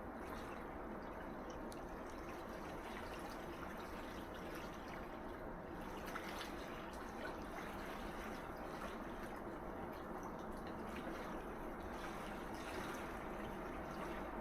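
Sea waves washing on a shoreline: a steady low wash, with a few lighter splashes of water about six seconds in and again near the end.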